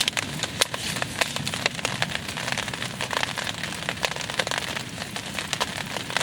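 Rain falling, with many sharp, irregular drop taps over a steady hiss.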